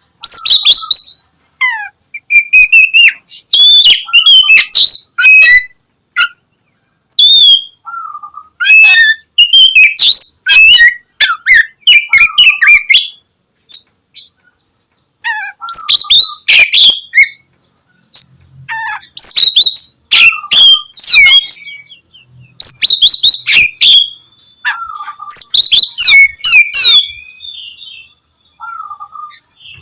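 Oriental magpie-robin (kacer) singing a loud, varied song: bursts of rapid whistles, trills and harsh notes, with short pauses between phrases.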